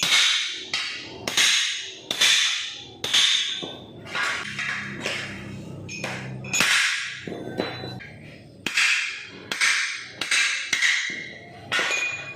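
Hammer blows on car body sheet metal, about one a second, each strike ringing briefly: panel beating in a body repair.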